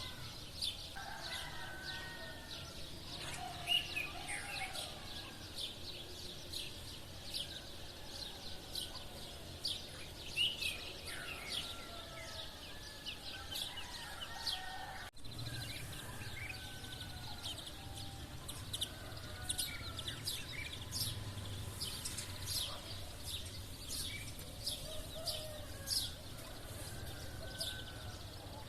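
Many sparrows chirping continuously in a dense chorus, with roosters crowing now and then underneath. The sound drops out for an instant about halfway through.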